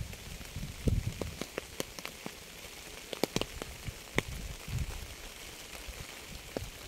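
Rain falling steadily, with individual drops ticking sharply at irregular moments and a few low rumbles now and then.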